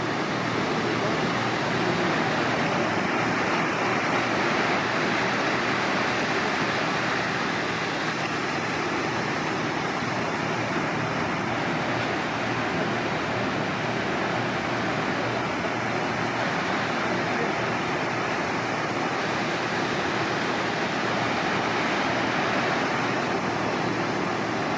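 Cohoes Falls on the Mohawk River, a large waterfall, giving off a steady, even rush of falling water.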